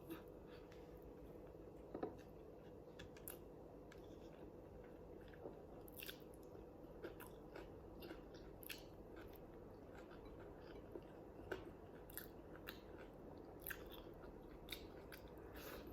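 Faint close-up chewing of food: irregular small mouth clicks and smacks, one every second or so.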